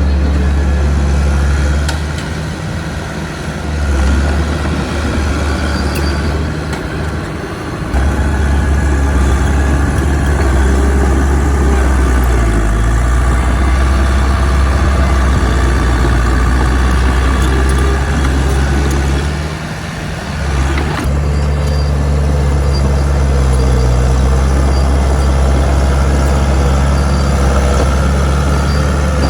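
Heavy diesel machinery engine running loudly and steadily, dipping in level a couple of times and changing abruptly about 8 seconds and 21 seconds in.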